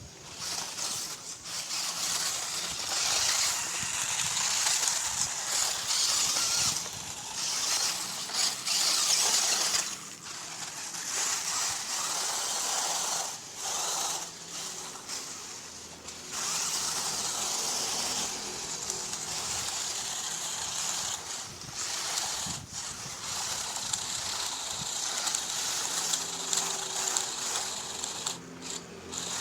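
RC rock crawler's tuned-up stock electric motor and gearbox whirring, stopping and starting in spurts as it drives.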